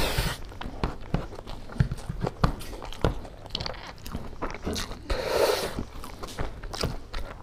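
Close-miked mukbang eating sounds: wet chewing, lip smacks and crunchy bites of pork curry and rice eaten by hand, with a raw green chili bitten about four seconds in.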